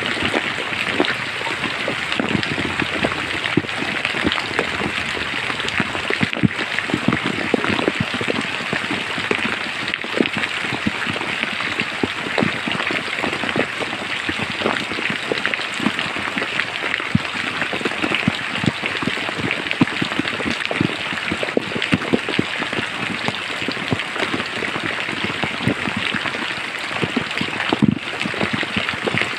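Steady rain falling through forest, a constant hiss with many separate drops striking close by.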